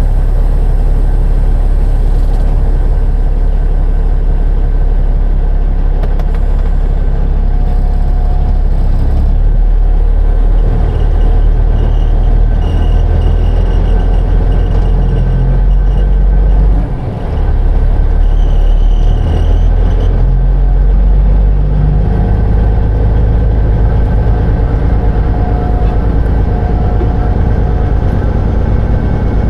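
Semi truck's diesel engine running under load on the road, its engine note changing in steps a few times, with a brief drop in level about halfway through.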